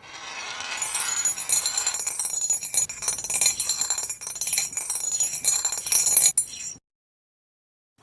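Bright clinking and jingling, like small metal or glass pieces knocking together, full of rapid small clicks. It cuts off abruptly a little before seven seconds in.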